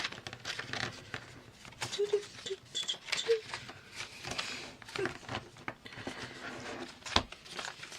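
Pages of a ring-bound paper journal being handled and turned: paper rustling with small taps and clicks, and a sharper knock about seven seconds in.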